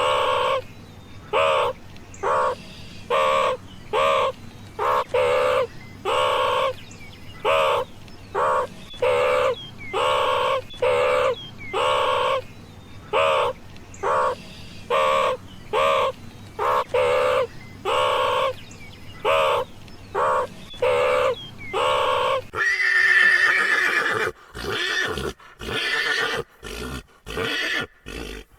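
An animal calling over and over, short pitched calls about once a second over a steady low hum. Near the end this gives way to a louder run of horse neighing and whinnying that cuts off suddenly.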